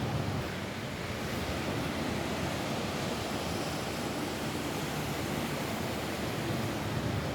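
Steady rain falling on a roof, a continuous even hiss without breaks.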